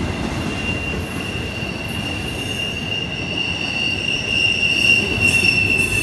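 Freight train cars rolling past with a steady, high-pitched squeal that grows louder, with higher squealing tones joining about halfway, over the low rumble of the wheels. Typical of a squeaky brake or squealing wheel on one of the cars.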